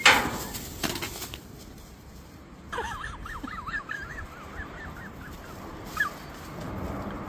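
A sharp bang or knock, then a smaller one about a second later. From about three seconds in comes a run of quick, wavering bird calls lasting a couple of seconds, and one more short call a little later.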